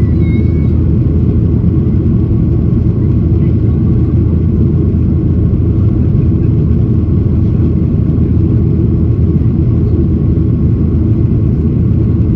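Steady, loud cabin noise of a Boeing 737-800 heard from a window seat: the CFM56-7B jet engines and airflow making an even, low-heavy rush with no change.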